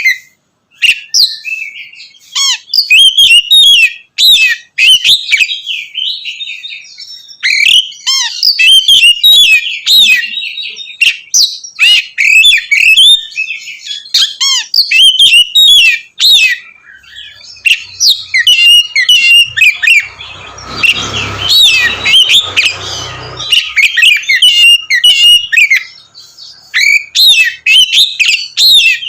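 Oriental magpie-robin singing its full song: rapid, loud, varied whistled phrases mixed with sharp clicks, with only short breaks. About twenty seconds in, a rushing noise lasts for roughly three seconds under the song.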